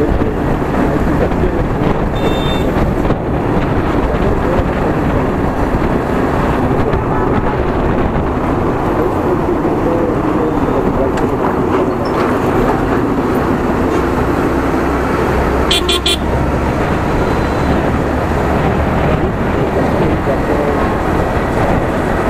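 Riding noise on a Yamaha R15 V3 motorcycle: the engine running under steady road and wind noise, with traffic around. Short horn toots come about 2 s in and again about 16 s in.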